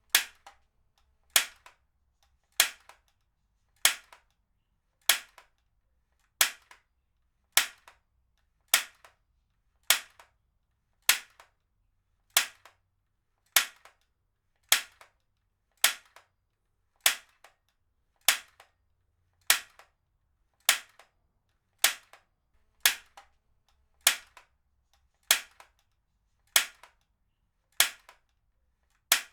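Heavy-duty stapler firing staples at a steady pace, about one every 1.2 seconds, each a sharp snap followed by a fainter click.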